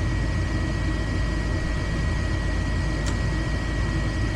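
Gas furnace's draft inducer fan running steadily during an ignition attempt, a low hum and rush of air with a thin steady whine. There is a faint tick about three seconds in.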